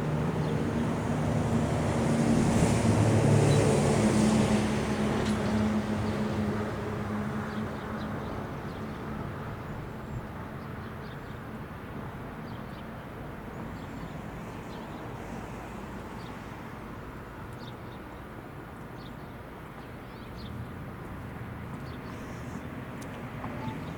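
A motor vehicle passing by: engine hum and road noise swell to a peak about three seconds in, then fade away.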